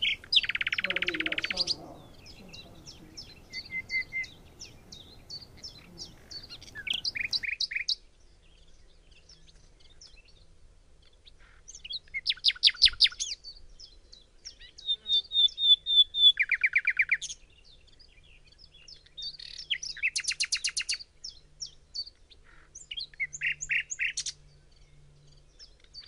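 Songbirds singing: a series of rapid trills, each lasting a second or two, alternating with short runs of chirps and brief pauses.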